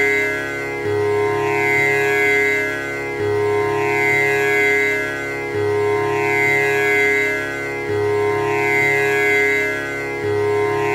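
Tanpura drone: the strings are plucked in turn in a cycle that repeats about every two and a half seconds, each cycle opening on a low note. The sustained notes ring on into each other with a shimmering upper overtone sweep.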